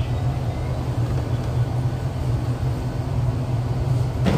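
Running noise of an MTR East Rail line R-Train electric multiple unit: a steady low rumble and hum from the motors and wheels on the track, with a short click near the end.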